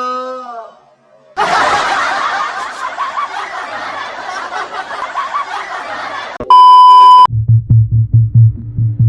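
A burst of many people laughing that lasts about five seconds and stops abruptly, then a loud, steady beep of about a second. After the beep, electronic music comes in with a fast, pulsing bass beat.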